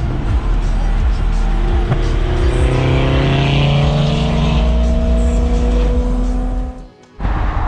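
BMW V8 engine under hard acceleration, its note climbing steadily in pitch for several seconds, then cutting off abruptly near the end before car sound resumes.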